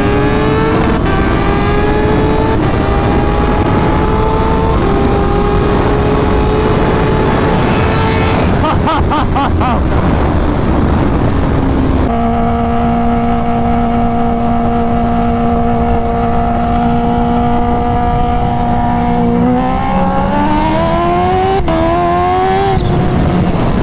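A vehicle engine under hard acceleration from a standing launch, its pitch rising and dropping at each upshift about every two seconds. Partway through it eases off and holds a steady pitch at speed for several seconds, then pulls hard again near the end, shifting up twice more.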